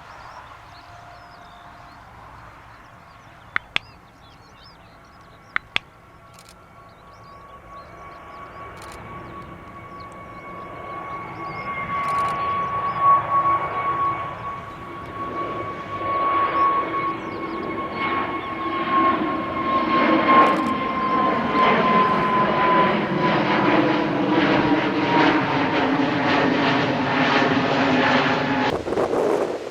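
Airbus A320neo jet engines at takeoff power, growing louder as the aircraft comes closer, with a steady fan whine whose pitch slides down as it passes by. Two pairs of sharp clicks sound about four and six seconds in.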